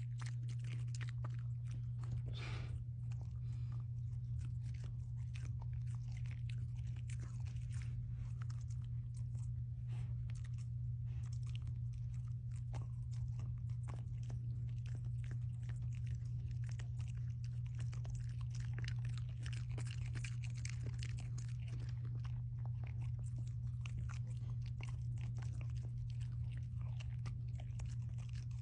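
Corgi crunching and chewing on sweet potato, a dense, irregular run of crunches and bites that goes on without pause. A steady low hum runs underneath.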